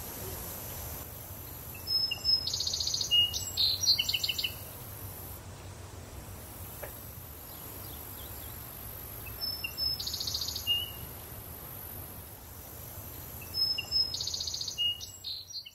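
A songbird singing three short, quick phrases of high chirping notes several seconds apart, over a steady low outdoor background noise.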